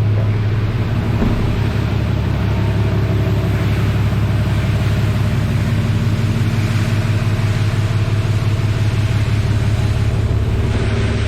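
Automatic car wash running, heard from inside a vehicle: a steady low hum with an even hiss of water spray.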